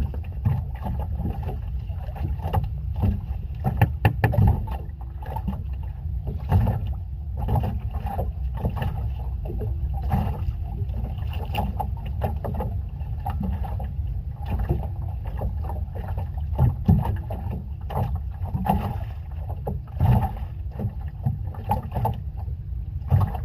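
Small boat at sea, with water slapping and knocking irregularly against the hull over a steady low rumble of wind on the microphone.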